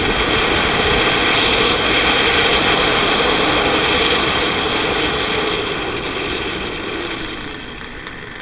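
Motorcycle on the move, its engine under a steady rush of wind on the microphone; the noise fades over the last three seconds or so.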